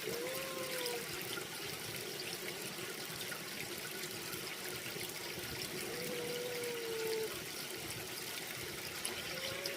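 Water running and trickling steadily. Three faint drawn-out tones, each about a second long, sound over it near the start, in the middle and at the end.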